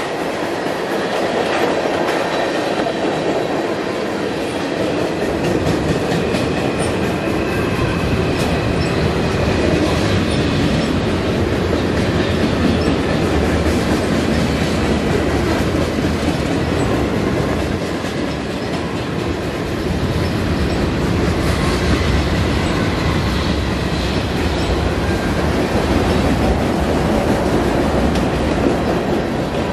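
Canadian National mixed freight train's cars rolling past, a steady heavy rumble with wheels clicking over the rail joints and a faint wheel squeal now and then.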